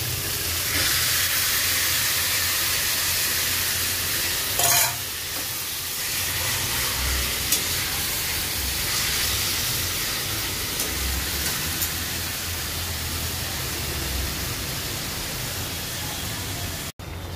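Yogurt-marinated chicken sizzling in hot oil and fried onion paste in a metal kadai, rising to a loud steady sizzle as it goes in, with a metal spatula scraping and stirring. A brief sharp clatter about five seconds in.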